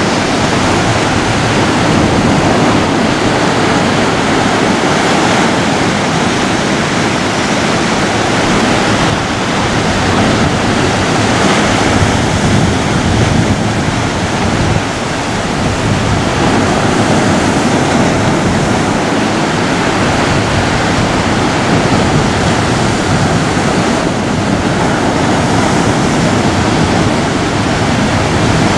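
Ocean surf: a continuous wash of breaking waves, a dense steady roar of water with only slight swells in level.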